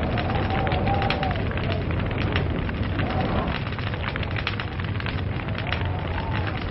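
Wood log fire crackling: a dense, irregular stream of pops and snaps over a steady low rumble of flame.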